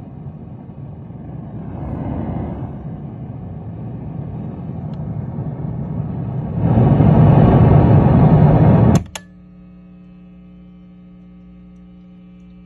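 Loud, unsteady noise from a faulty Bogner Ecstasy Red overdrive pedal through a guitar amplifier, growing louder about two-thirds of the way in. The noise persists with the pedal's volume and gain turned down and on battery power, which the owner takes for a fault in the pedal's internal hardware. About nine seconds in, a sharp click cuts it off, leaving a quiet steady amplifier hum.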